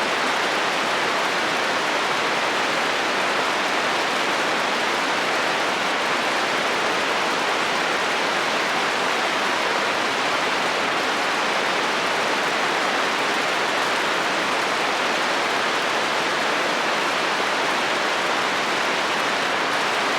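Steady rain falling on a metal roof: a dense, even hiss that holds level throughout.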